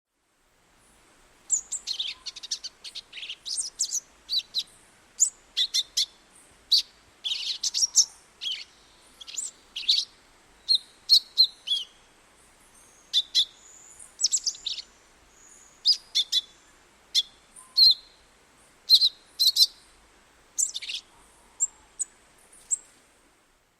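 Small birds chirping: many short, high, sharp chirps and brief whistles in quick, irregular succession, starting about a second in.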